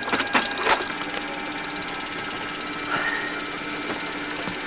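A few knocks, then a steady mechanical buzz with a fast, even rattle from a running machine.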